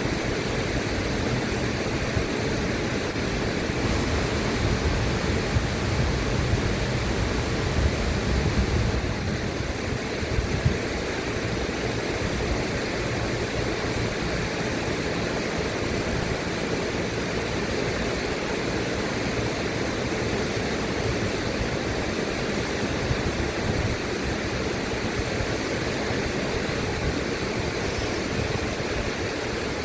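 River water rushing steadily, an even wash of noise, a little fuller for a few seconds near the start.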